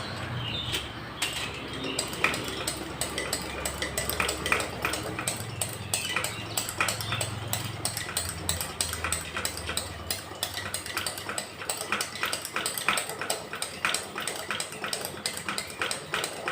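The built-in hand pump of a brass Trainite 350 c.p. kerosene pressure lantern being worked in quick, repeated strokes, with a sharp metallic click on each stroke. The pumping tops up the fuel-tank pressure on the lit lantern to brighten the mantle.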